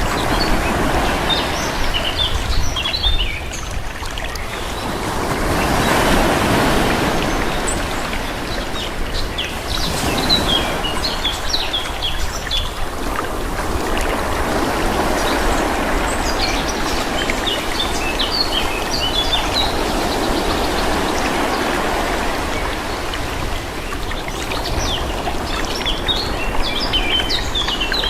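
Calm sea waves washing in and out, swelling and easing every few seconds, with small birds chirping now and then over them.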